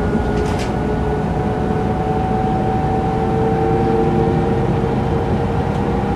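Mercedes-Benz O405 N² city bus with Voith automatic gearbox under way, heard from inside the bus: steady diesel drone with a whine that rises slowly in pitch as the bus gathers speed. A brief hiss about half a second in.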